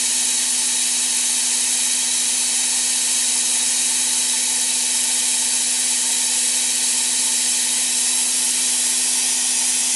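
Abrasive blasting jet hissing steadily as compressed air and corundum grit blast the worn seal seat of a turning steering rack, preparing the surface for metal spraying. A steady hum runs beneath the hiss.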